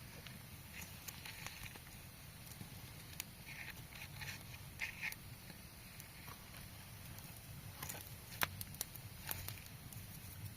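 Campfire crackling faintly, with scattered sharp pops and clicks.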